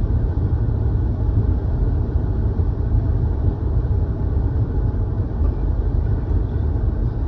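Steady low road and engine noise of a car driving, heard from inside the cabin.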